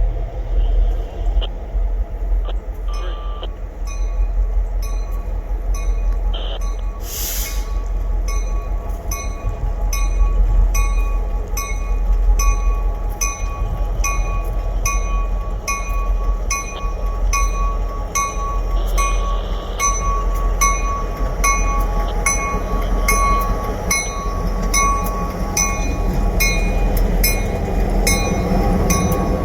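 Diesel freight locomotive running with a low rumble while its bell rings steadily, about one and a half strikes a second, from several seconds in. A brief hiss comes just before the ringing begins.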